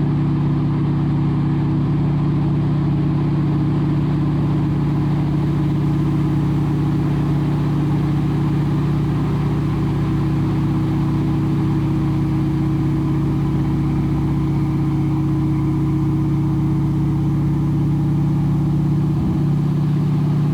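T-6 Harvard's nine-cylinder Pratt & Whitney R-1340 Wasp radial engine droning steadily in level flight, heard from inside the cockpit.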